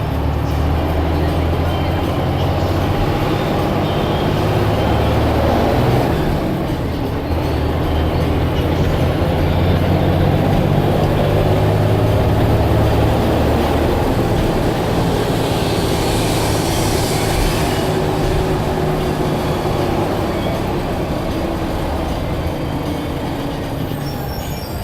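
Blue Bird All American bus running on the road, its engine drone rising and falling in pitch as it changes speed. A hiss lasts about two seconds, a little past halfway through.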